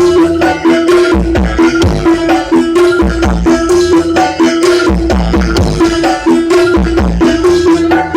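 Loud carnival dance music played through a large 'sound horeg' speaker system, with heavy bass thumps, busy percussion and a held mid-pitched synth tone.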